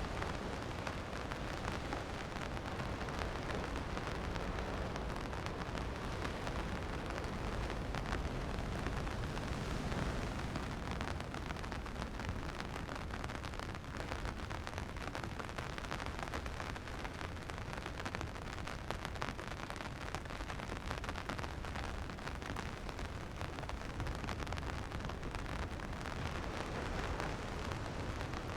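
Steady rain falling, a dense patter of drops over a low rumble.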